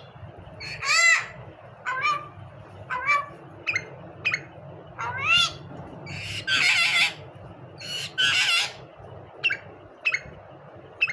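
A myna calling: a string of short whistled calls that slide up and down in pitch, broken by two longer, harsh squawks about six and eight seconds in.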